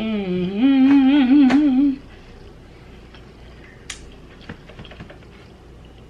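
A woman humming a drawn-out, wavering "mmm" for about two seconds: the pitch dips, rises, then wobbles. A few faint clicks follow.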